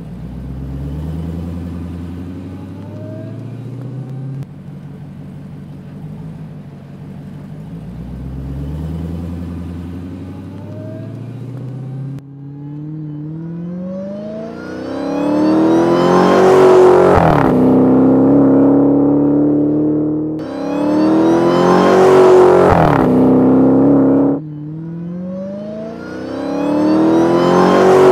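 Dodge Challenger V8 accelerating hard in a string of separate runs, the engine note rising in pitch each time. Two milder pulls come first, then three much louder full-throttle runs in the second half, each breaking off sharply.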